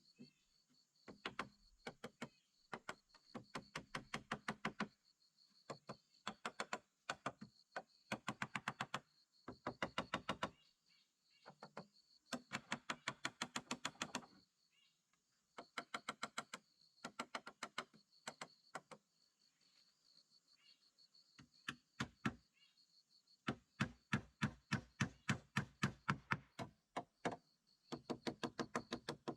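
Runs of quick, sharp knocks, about five a second, each run lasting one to three seconds with short pauses between: a hand tool striking wood in hut-building work. A steady high insect buzz goes on underneath.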